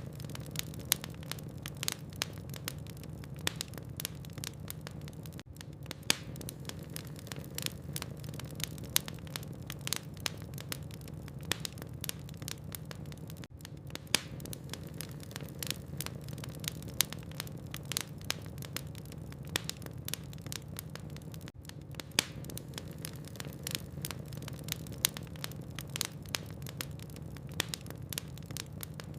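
Wood fire burning in a fireplace: frequent, irregular sharp pops and snaps from the burning logs over a steady low rumble.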